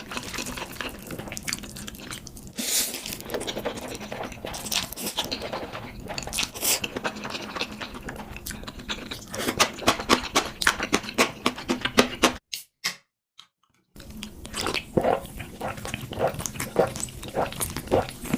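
Close-miked eating sounds of a person chewing spicy instant ramen noodles, with many sharp wet smacks and crunches that grow densest a little past halfway. The sound drops out briefly about two-thirds of the way through, then the chewing resumes.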